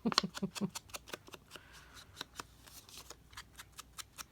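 Paper cards and cardstock being handled on a craft table: an irregular run of light taps, clicks and paper flicks, busiest in the first second and lighter after.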